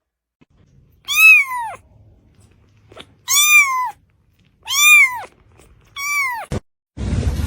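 A domestic cat meowing four times, each meow rising and then falling in pitch.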